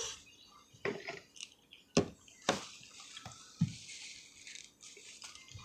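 Close-up wet eating sounds from mouth and utensils: sharp clicks and taps about one and two seconds in, then a longer wet hiss with a low thump partway through.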